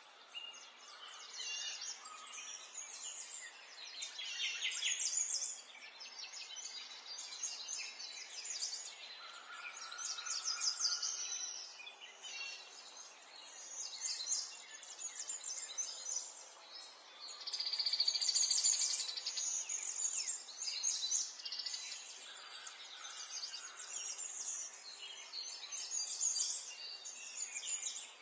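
Several birds singing and calling over one another in quick, high chirps and trills, with one long rapid trill a little past the middle.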